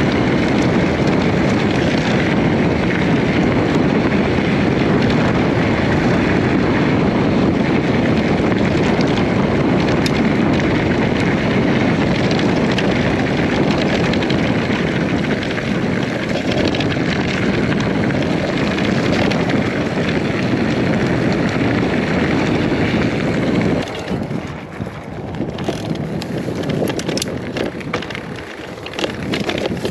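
MMR X-Bolt 120 electric mountain bike being ridden: steady wind rushing over the microphone and tyres rolling over rough ground. About 24 seconds in the rush drops and thins, leaving scattered clicks and rattles.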